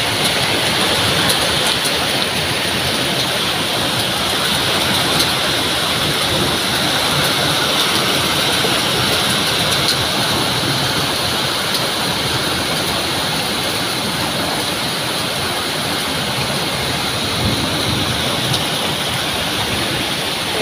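Heavy downpour of rain and hail on the ground and roofs outside a window, a steady dense hiss with faint scattered ticks.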